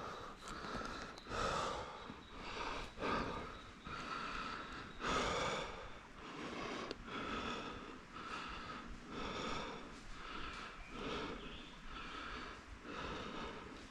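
A runner's heavy breathing from exertion: a steady series of hard breaths, about one a second.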